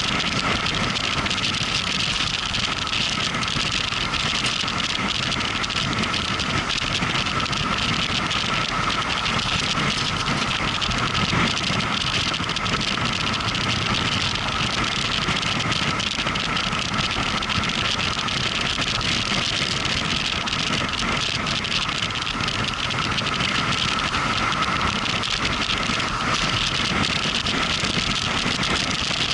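Motorcycle underway at a steady pace: an unbroken rush of wind and road noise, with the engine running underneath.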